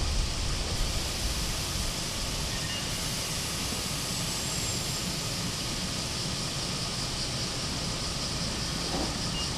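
A Takamatsu-Kotohira Electric Railroad (Kotoden) electric commuter train pulling slowly into a station, making a steady, even running noise.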